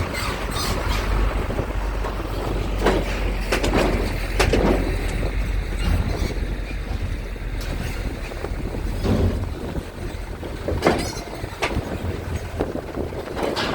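Low steady rumble of a ferry's engines in strong wind, easing after about eight seconds, with irregular sharp knocks and clatter throughout.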